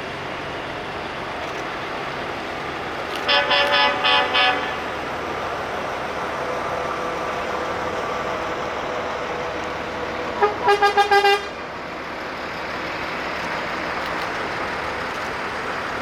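Truck horns tooting in two quick bursts of about five short blasts each, several seconds apart, the second burst lower-pitched, over the steady running of passing trucks.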